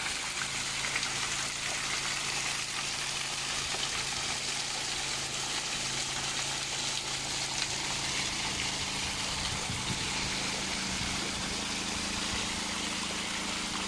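Water from a landscaped waterfall splashing steadily into a small pool, with a steady low hum underneath that grows a little stronger in the second half.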